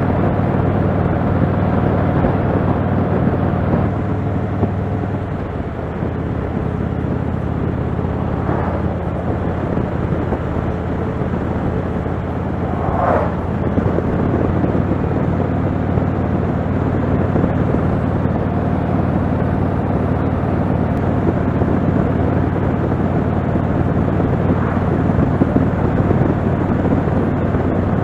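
Motorcycle engine running steadily while riding, with the rush of air over it; the engine note shifts about five seconds in.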